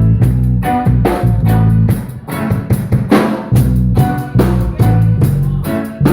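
Live band playing an instrumental groove: a drum kit keeps a steady beat, with hits about twice a second, over a bass line and a guitar.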